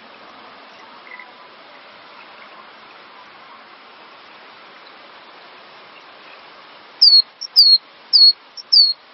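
A cinereous tit (gelatik batu) singing: after about seven seconds of a steady faint hiss, it starts a run of loud, short whistled notes that each slur downward, about two a second.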